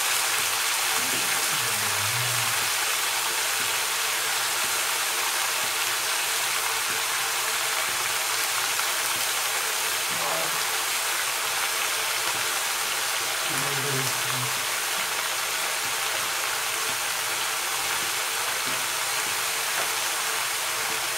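Mixed vegetables frying in hot oil in an aluminium kadai on an induction cooktop, a steady sizzle.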